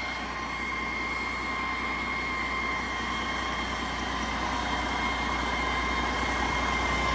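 Detroit Diesel DD16 15.6-litre inline-six diesel engine running steadily, a low rumble with a steady high whine over it, getting slightly louder toward the end.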